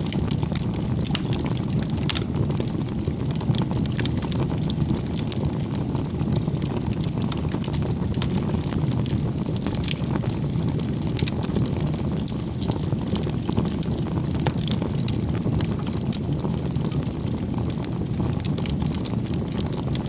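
Crackling campfire: a steady low rush of burning wood with many small, irregular pops and crackles.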